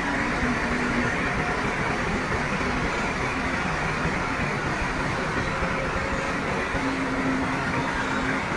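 Heavy diesel earthmoving machinery running steadily, with a brief low whine near the end.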